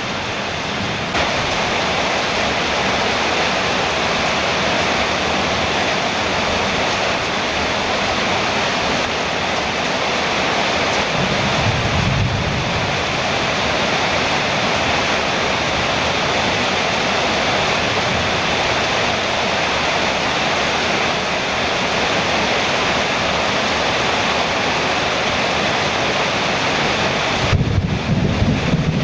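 Heavy rain falling steadily on a metal roof, a dense even patter, with a low rumble about twelve seconds in and again near the end.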